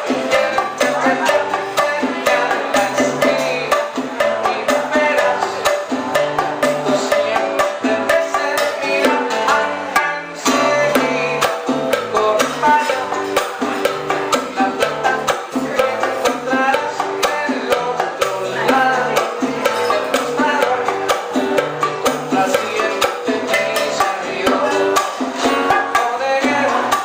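A live old-school Cuban band playing an instrumental passage, with a driving percussion rhythm over a walking bass line. It drops out briefly about ten seconds in, then picks up again.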